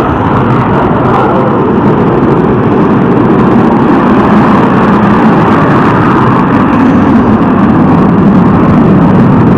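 Military fighter jet engines running at high thrust, a very loud, steady roar that grows slightly louder.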